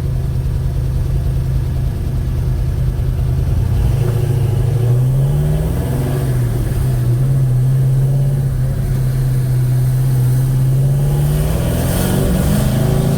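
1956 Chevy Bel Air's 307 small-block V8 running while driving, with a very loud valve train that sounds like a diesel: mismatched valve springs and retainers. The engine revs up about four seconds in, holds steady, then eases off and revs up again near the end.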